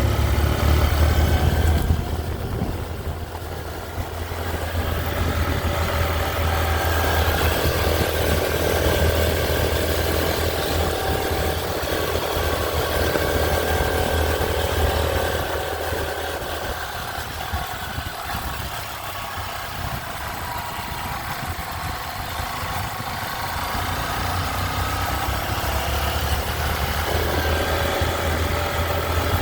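Motorcycle engine running on the move, its note shifting a couple of times, under a heavy low wind rumble on the microphone.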